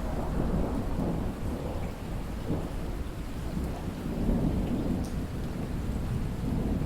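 Steady rain falling, with a long, low rumble of rolling thunder that swells in at the start and keeps rumbling throughout.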